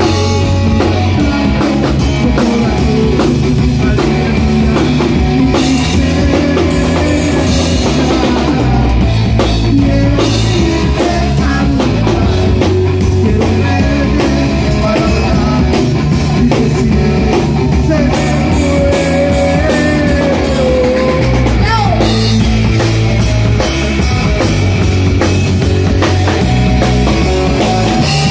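Live rock band playing: drum kit, bass and electric guitar, with a held, wavering lead note about twenty seconds in that slides down.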